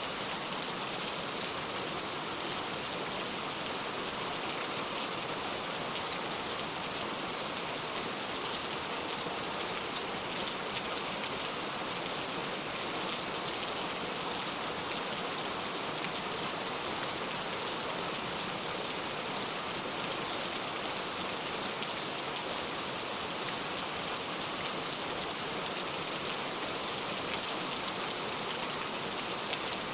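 Steady rain falling on the ground, an even hiss with scattered drop patters and no thunder.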